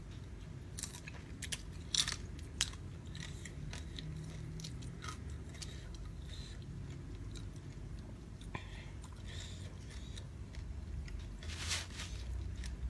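Close-up chewing and biting of raw shrimp, with scattered sharp crunching clicks. The loudest come about two seconds in and again near the end.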